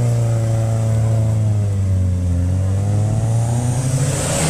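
Car engine held at steady high revs, its pitch dipping slightly about a third of the way in and creeping back up. Near the end another car passes close by with a short rush of noise.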